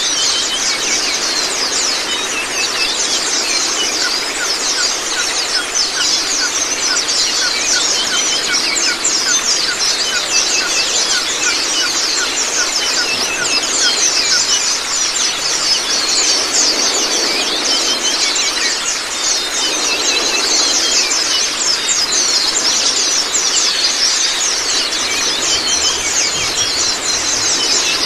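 Many white-eyes (Zosterops) singing and chattering together in dense, fast, high-pitched twittering trills and rapid repeated notes, over a steady sound of running water.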